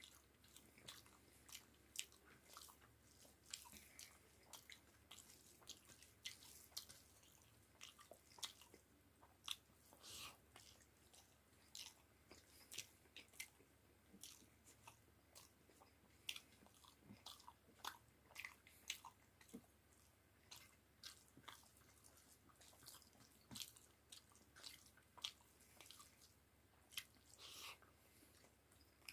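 A person chewing and biting food with frequent short mouth clicks and smacks, a few a second, while eating aloo pakoras with dal and rice. Faint overall.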